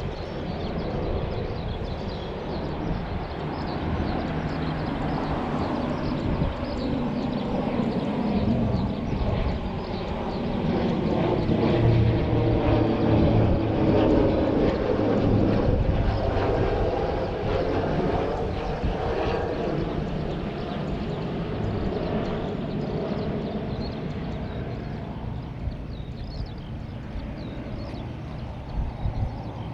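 An aircraft passing by. Its engine sound builds to its loudest about halfway through and then fades away.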